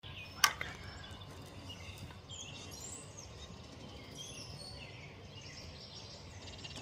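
Several wild songbirds chirping and calling in short scattered notes over a steady low background rumble, with one sharp click about half a second in.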